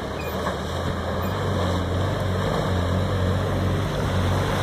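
Off-road 4x4 truck engine running steadily as the truck wades into water, with a rushing, splashing wash of water growing slightly louder.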